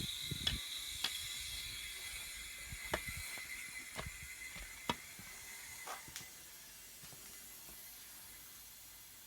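Compressed air hissing into the chamber of a homemade pneumatic potato cannon as it is charged, with a faint whistle that slowly fades, and scattered sharp clicks.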